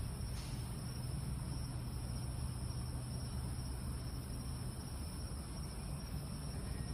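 Night ambience: a steady high chorus of crickets over a constant low hum.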